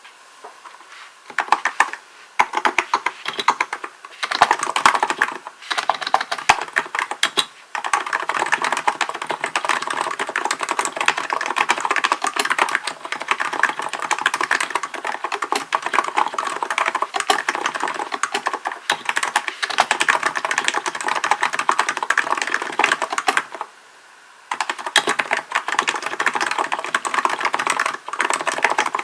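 Typing on a Hansung GK898B electro-capacitive (Topre-style) keyboard. A few scattered keystrokes come first, then steady fast typing with a brief pause about three-quarters of the way through.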